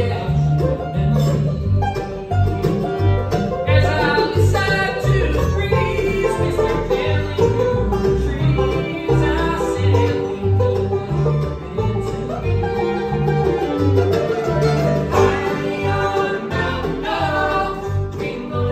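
Bluegrass band playing live: banjo and guitar picking over a bass line that alternates between notes on a steady beat.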